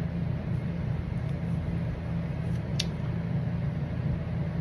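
A steady low machine hum, with one short click about three seconds in.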